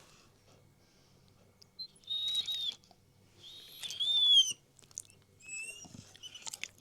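Pet bird calling: two loud, half-second whistled calls with a slight pitch bend, then a run of short, quicker chirps near the end.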